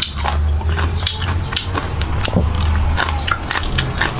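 Close-up crunchy chewing and biting of a crisp pickled vegetable root, with many small irregular crunches, over a steady low hum.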